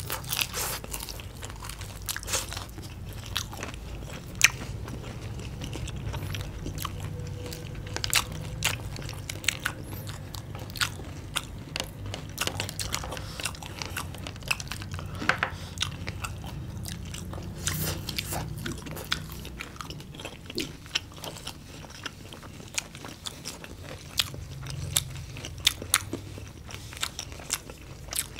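Two people biting and chewing crispy deep-fried battered food, with many sharp, irregular crunches of the batter.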